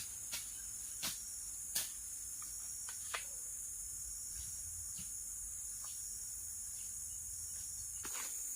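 Forest insect chorus, a steady high-pitched chirring, with about four sharp clicks or snaps in the first three seconds and a broader rustling noise rising near the end.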